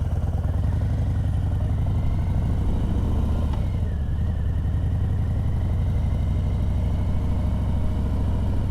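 Harley-Davidson Heritage motorcycle's V-twin engine running steadily at low speed, a continuous low rumble.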